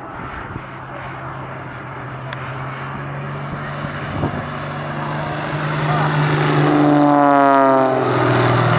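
Airshow aircraft flying past low, its engine growing louder over several seconds and then dropping in pitch as it goes by near the end.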